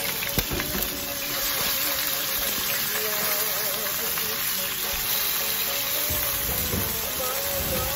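Liver slices sizzling as they fry in hot oil in a pan, turned with wooden chopsticks, with one sharp click about half a second in. Background music plays over it.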